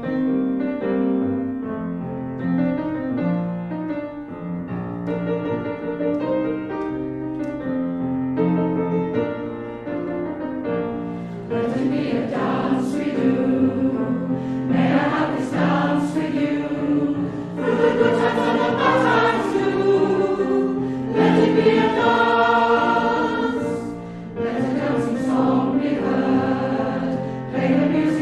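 Hymn: an instrumental introduction of steady chords, then from about eleven seconds in a congregation singing the hymn over the accompaniment.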